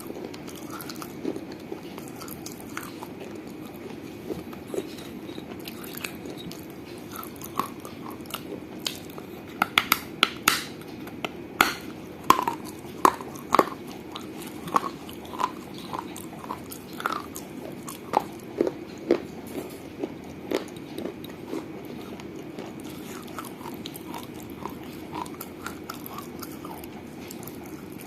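Teeth biting and crunching pieces of a small fired-clay piggy bank: crisp cracks and crunches, sparse at first, coming thick and loud from about a third of the way in to about three quarters, then thinning out again. A steady low hum sits underneath.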